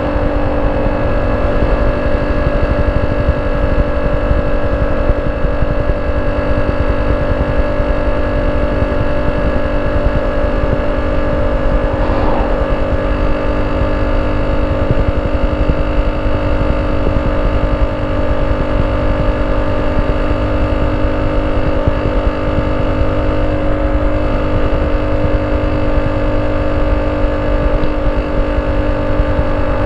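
Honda C70's single-cylinder four-stroke engine running at a steady pitch through a banana-style (pisang) exhaust.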